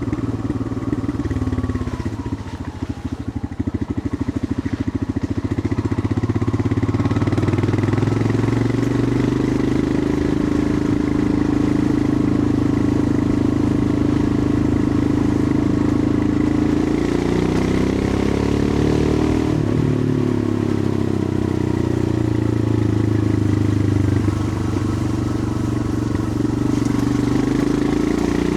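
Royal Enfield Himalayan 411's single-cylinder engine running on the move. The note drops and quietens about two seconds in, then holds steady, and briefly rises and falls a little past the middle.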